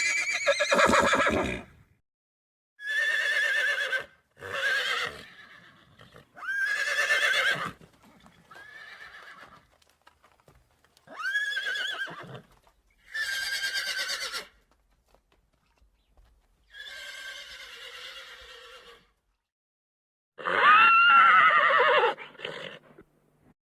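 Horse whinnies and neighs, about nine separate calls of one to two seconds each with short silences between. The last call is a long whinny falling in pitch.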